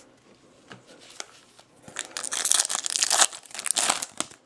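Foil trading-card pack being torn open, the wrapper crinkling and tearing for about two seconds, starting about two seconds in.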